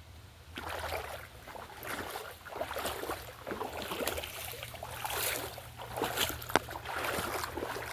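Uneven footsteps splashing and crunching through shallow water and wet sand, a dozen or so irregular steps.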